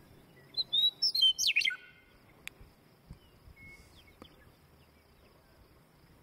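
A songbird sings one short, quick phrase of notes that falls in pitch, starting about half a second in and lasting about a second, followed by faint outdoor ambience with a thin, steady high-pitched buzz.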